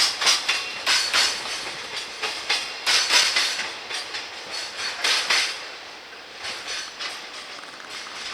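Freight train wagons rolling past, their wheels clattering over rail joints in repeated clacks. The clacking is loudest in the first half and thins out and gets quieter near the end as the train draws away.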